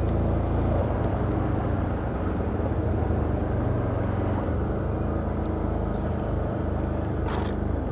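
Can-Am Outlander ATV engine running steadily under way, with a low hum. A short rush of noise comes about seven seconds in.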